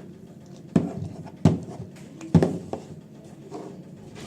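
Slime being stirred in a container by hand, with three dull knocks about a second apart.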